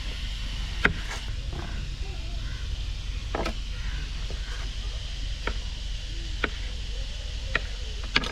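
Six sharp clicks or knocks at irregular intervals over a steady low rumble.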